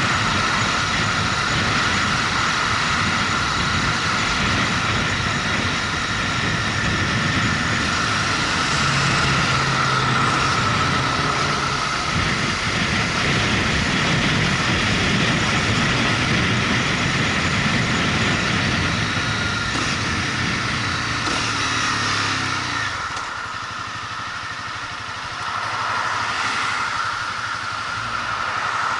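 Motorcycle engine running while riding, under a steady rush of wind and road noise. About 23 seconds in, the engine's low note drops away and the sound gets quieter, then the level rises again a few seconds later.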